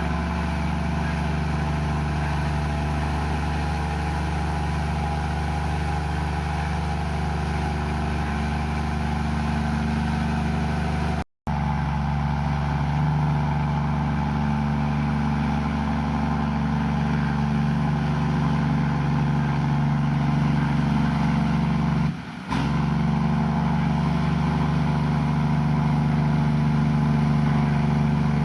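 Komatsu bulldozer's diesel engine running steadily, with a deep, even drone. The sound drops out completely for an instant about eleven seconds in and dips briefly a little after twenty-two seconds.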